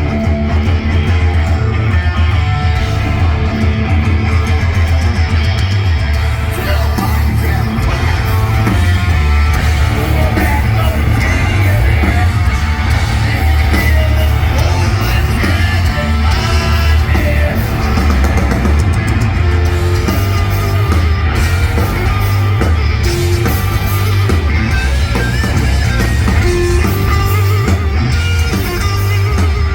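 A heavy rock band playing live and loud: distorted electric guitars, heavy bass and drums, with shouted and sung vocals.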